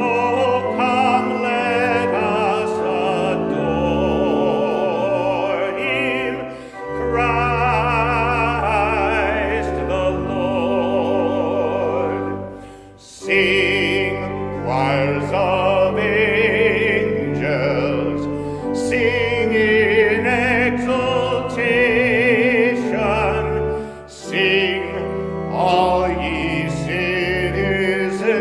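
Music: a classical-style vocal performance, sung with strong vibrato over instrumental accompaniment, in long phrases with short breaths between them.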